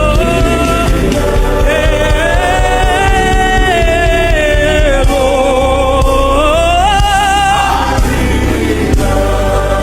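Gospel worship song: a choir singing long held notes that slide slowly up and down in pitch, over steady instrumental backing.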